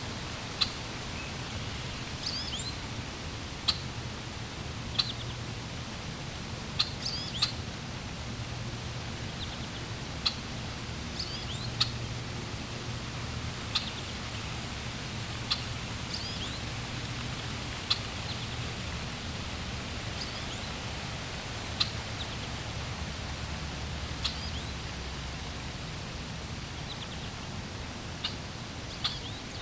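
Steady rush of flowing water, with short, sharp bird chirps about every one to two seconds standing out above it.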